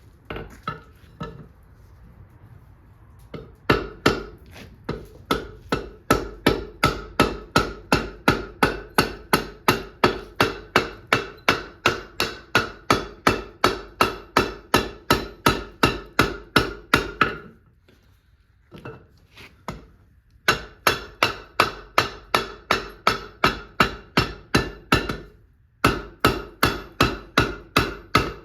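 Forging hammer blows on a hot steel bar over an anvil: a few light taps, then a steady run of hard strikes, about two to three a second, each with a metallic ring. The run stops for a few seconds past the middle, with a couple of light taps in the gap, then resumes with another short break near the end.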